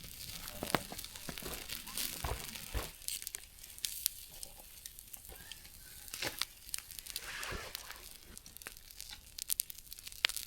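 Scattered clicks, taps and crinkling rustles from handling cookware and food while a camp meal is served.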